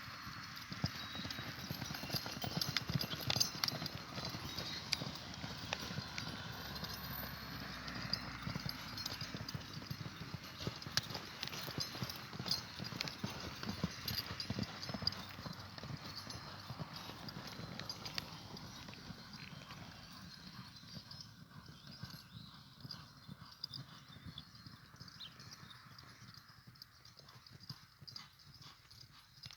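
Horses' hooves stamping and shuffling in quick, irregular knocks as mounted horses shove against each other in a topeo, fading somewhat in the second half.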